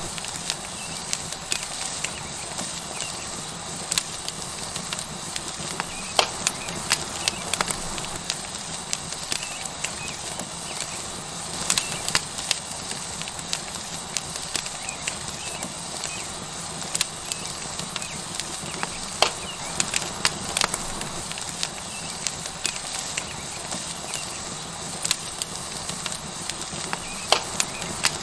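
Tomahawk steak sizzling on a hot rock over a wood fire: a steady hiss with frequent, irregular sharp crackles and pops.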